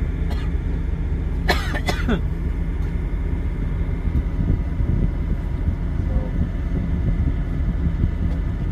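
Steady low rumble of a semi truck heard from inside the cab, with one short cough-like sound about a second and a half in.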